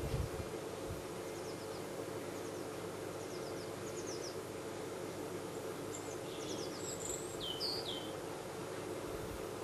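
Small garden birds calling: a few quick series of high ticking notes and short chirps, the clearest cluster a little over halfway through, over steady background noise. A low thump sounds right at the start.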